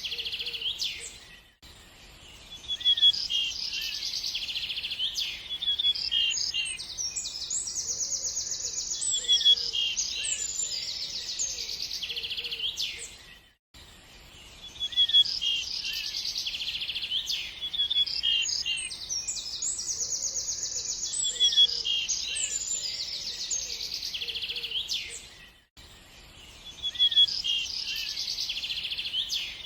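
Several small songbirds chirping and trilling together, high-pitched and busy. The same stretch of birdsong repeats about every twelve seconds, with a brief dip in level before each repeat.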